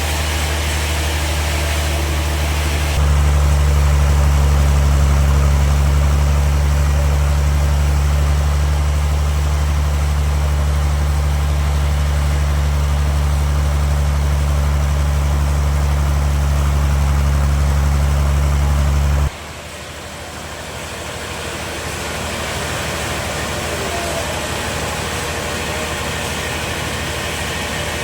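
Engine-driven sawmill machinery running steadily with a low hum. It gets louder about three seconds in and cuts off abruptly about two-thirds of the way through, leaving a quieter, even machinery noise.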